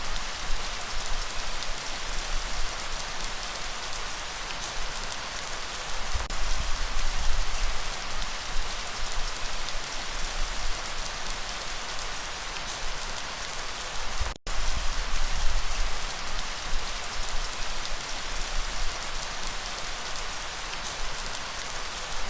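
Steady, dense rainfall, a continuous hiss of drops with a deep low rumble beneath. The sound cuts out for an instant about two-thirds of the way through.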